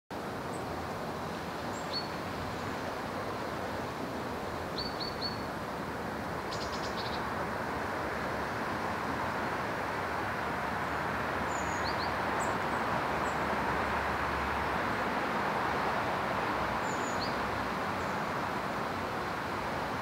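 A steady rushing background noise, swelling slightly in the middle, with small birds' short high chirps scattered through it: a single chirp about two seconds in, three quick chirps around five seconds, a brief rapid rattle just after, and a few more single chirps later on.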